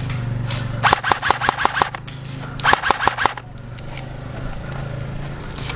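Airsoft gun firing two rapid bursts of shots, about nine a second, the first starting about a second in and a shorter one near the middle, over a steady low hum.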